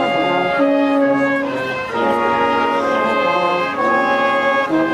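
Brass band playing: trumpets, trombones and horns sounding sustained chords that change every second or so.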